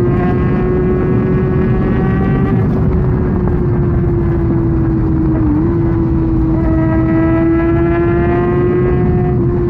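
Kawasaki Ninja ZX-6R's inline-four engine with an SC-Project exhaust, running at steady high revs while cruising at highway speed, its pitch holding nearly constant with a brief dip about five and a half seconds in, over a heavy rush of wind noise.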